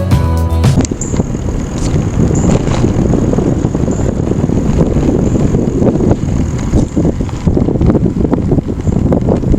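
Loud wind buffeting the microphone while riding a bike, a gusty low rumble; music cuts off just under a second in.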